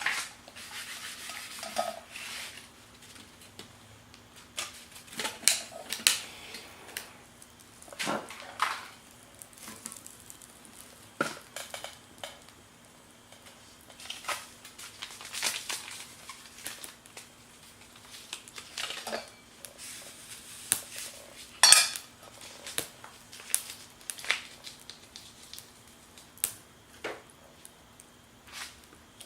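Metal cookware and cutlery being handled: scattered clinks, taps and knocks at an uneven pace, with the loudest clatter about two-thirds of the way through.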